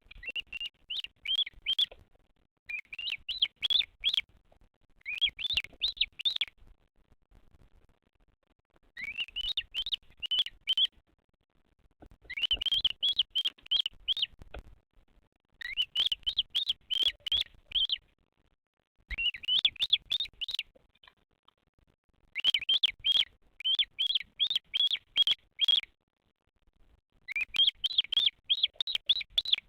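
Bearded vulture chick calling: bouts of rapid, high, rising chirps about two seconds long, repeated every three to four seconds.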